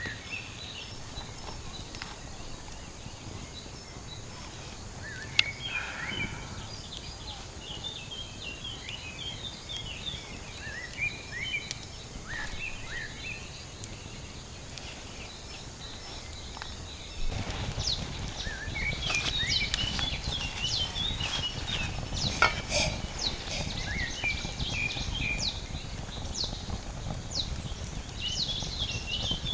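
Forest ambience: many short chirping animal calls over a steady background noise. About halfway through, a deeper rumbling noise sets in and the calls grow denser and louder.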